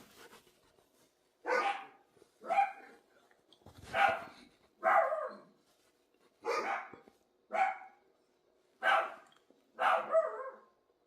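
A dog barking: about eight short barks falling in pairs, with a pause of about a second between pairs.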